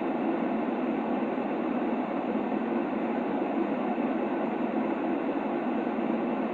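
Steady, unchanging white noise of the kind played to soothe a baby, with a muffled, low rumbling character and little treble.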